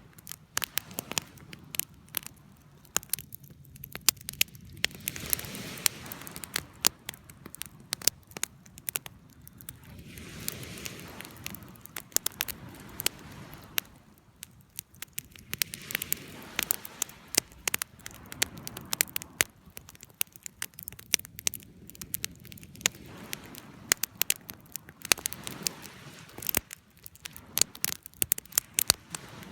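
Campfire burning: wood crackling and popping in sharp, irregular clicks over a low, swelling hiss of flames.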